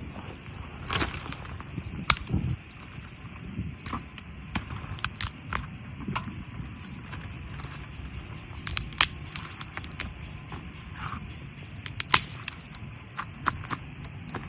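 Wood campfire crackling, with irregular sharp pops and cracks over a low rumble. An insect, cricket-like, drones on one high steady note and fades out about eight seconds in.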